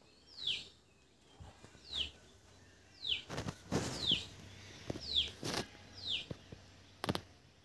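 A bird calling over and over, one short falling whistle-like note about once a second, with a few brief knocks around the middle and near the end.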